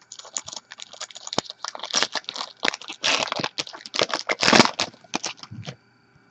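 Crinkly plastic packaging being crumpled and torn while trading cards are handled, a dense run of irregular crackles and rustles that stops near the end.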